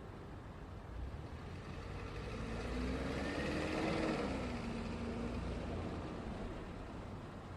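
A road vehicle drives past over a steady background of traffic rumble: its engine and tyre noise swell to a peak about four seconds in and then fade, the engine note dropping in pitch as it goes by.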